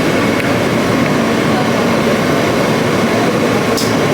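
New York City subway train running, heard from inside the car: a loud, steady noise of the moving train on the track, with a brief hiss near the end.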